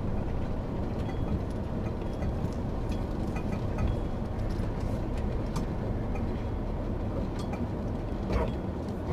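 Van engine and road noise from inside the cab while driving: a steady low rumble with a few faint rattles.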